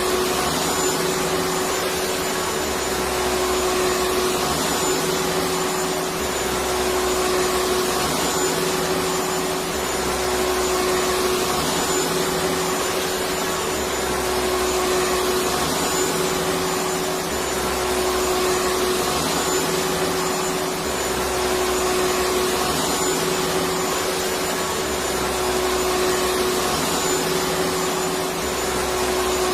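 Electric vacuum cleaner running steadily with a constant motor whine, and a low rumble that comes and goes every three to four seconds.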